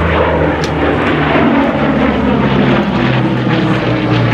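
Propeller airplane's piston engine running loud and steady, its pitch falling gradually.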